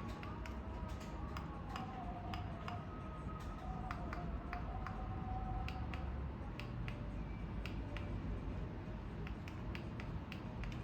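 Crackling fire sound: irregular sharp crackles and pops over a low steady rumble, with faint wavering whistling tones.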